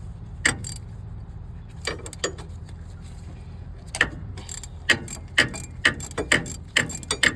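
Hand ratchet and socket clicking in irregular strokes while loosening a 14mm water pump bolt on a Cummins ISX 15, the clicks coming faster in the second half, over a steady low hum.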